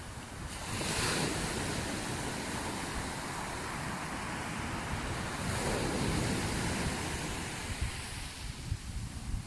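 Sea waves washing onto the shore in a steady hiss, swelling twice as waves break, about a second in and again around six seconds. Wind buffets the microphone with an uneven low rumble near the end.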